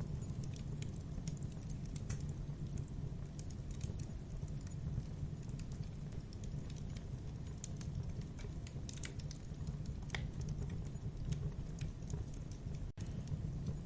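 Wood fire burning: irregular crackles and pops over a steady low rushing of the flames, with a split-second dropout near the end.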